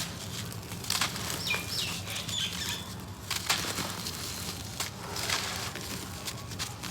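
Gritty cement crumbling and sifting: a dense, irregular run of small crackles and gritty ticks, with a few sharper clicks standing out.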